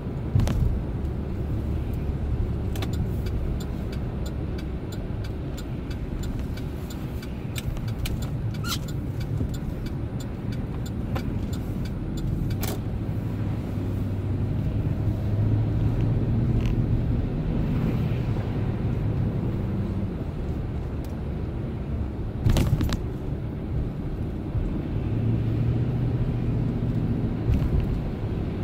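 Chevrolet Silverado pickup truck driving: a steady engine and road rumble whose engine note rises and falls in places, with scattered sharp clicks and a louder knock about 22 seconds in.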